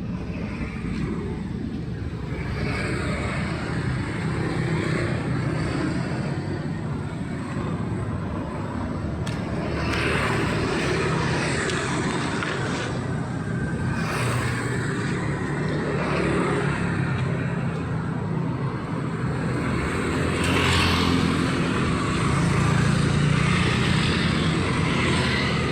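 Street traffic: a steady low rumble of engines, with vehicles passing close by in louder swells every few seconds.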